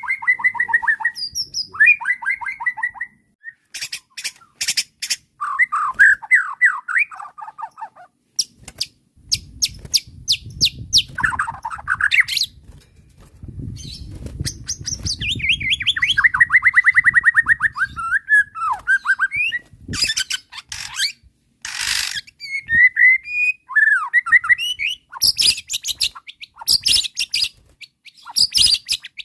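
White-rumped shama (murai batu) in agitated song, a fast-changing string of phrases: rapid repeated whistled notes, sharp clicking strokes, harsh squawk-like calls and a long fast trill midway, with short pauses between phrases.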